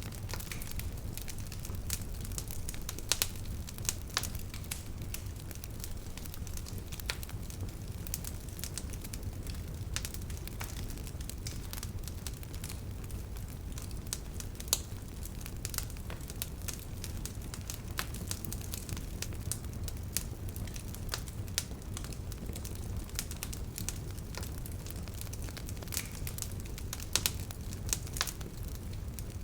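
Wood bonfire crackling, with many irregular sharp pops and snaps over a steady low rumble of the burning fire.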